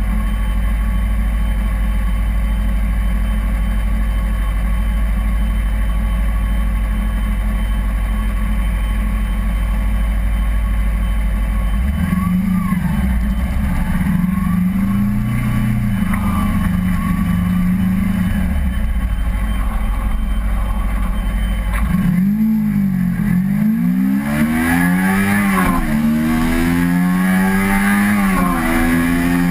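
Kawasaki Ninja 250R's parallel-twin engine idling steadily, then blipping and pulling away about halfway through. Near the end it goes to hard acceleration, the pitch climbing and dropping back at each of several quick upshifts, for a 0–100 km/h run.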